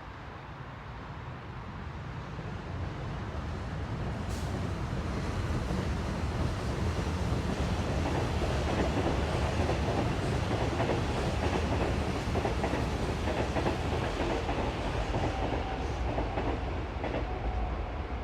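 A train running on rails, growing louder over the first six seconds and then holding steady as a heavy rumble with scattered clicks. A faint steady whine joins near the end.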